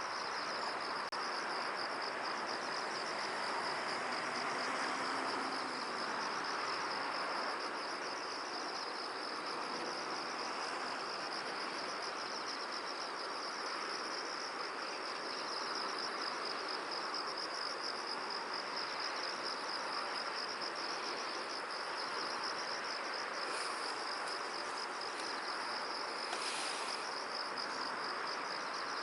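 Field insects trilling without a break in a fast, even pulse, over a steady hiss of wind in the open field.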